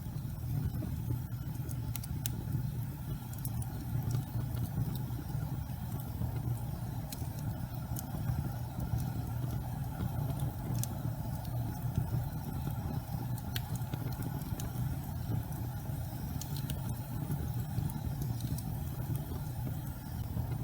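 Fireplace fire burning with a steady low rumble and scattered sharp crackles every second or two.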